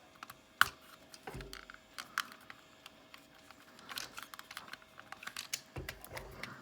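Scattered plastic clicks and taps from the jointed parts of a transforming robot toy being worked apart by hand, with one sharp click under a second in and a few more spread through.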